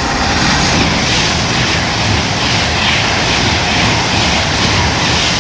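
Virgin Trains Class 390 Pendolino electric train passing through the station: a loud, steady rush of wheel and air noise.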